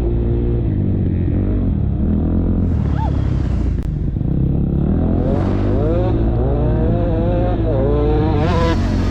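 KTM motocross bike's engine running hard under a rider, heard up close. From about halfway through, it revs up and down repeatedly with the throttle and gear changes.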